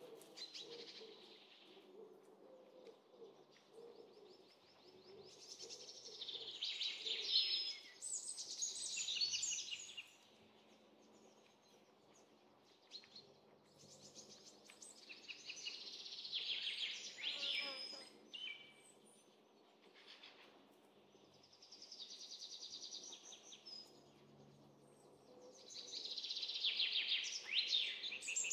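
Small birds chirping and trilling in bouts every few seconds, with quieter gaps between, over a faint low steady hum.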